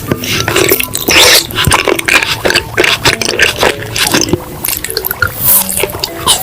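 Close-miked wet eating sounds: irregular squishing and smacking chews, with background music under them.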